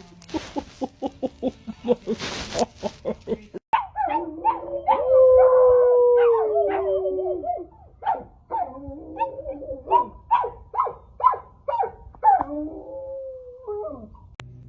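A dog howling: one long howl from about four seconds in, slowly falling in pitch, with quick runs of short barks or yips before and after it.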